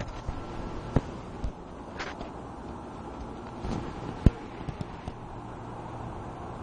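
A few scattered sharp knocks or taps over steady background noise, the loudest about four seconds in.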